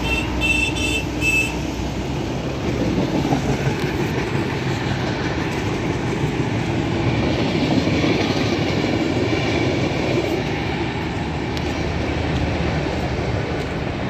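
Passenger train's coaches running past on the track: a steady noise that swells around the middle and eases toward the end. A few short beeps sound in the first second and a half.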